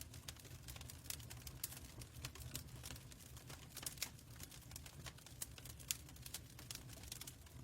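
Fireplace crackling: faint, irregular sharp crackles and pops over a steady low rumble.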